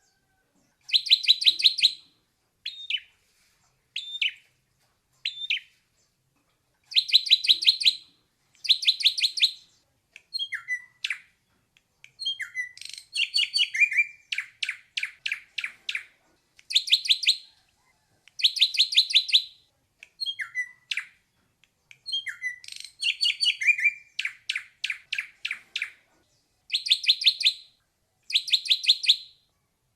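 Ashy drongo singing: phrases of about half a dozen quick, high, ringing notes, mixed with single short notes and a few downward-sliding notes, with clean gaps between phrases.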